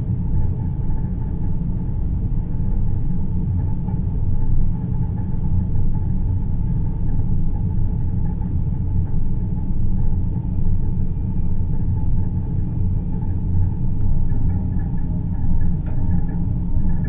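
Steady deep rumble of a synthesized space-ambience noise track, its weight in the bass, with a fainter hum above it.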